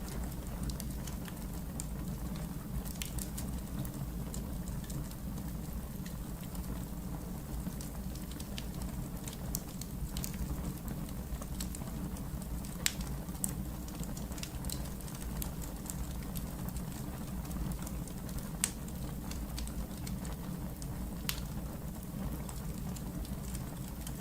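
Wood fire burning in a fireplace: a steady low rumble with irregular crackles and pops, a few louder snaps standing out.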